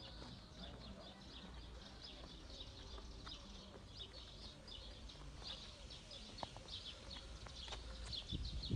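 Small birds chirping, many short high notes repeating over a steady low outdoor background; a low rumble swells near the end.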